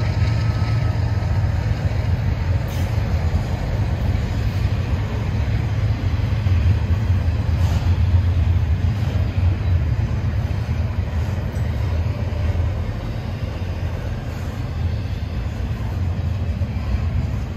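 Double-stack intermodal freight train rolling past at speed: a steady low rumble of wheels on rail and cars, with a few faint clicks.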